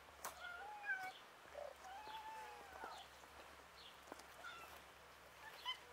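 Faint bird calls: short whistled chirps and a few longer sliding notes, with a few light clicks between them.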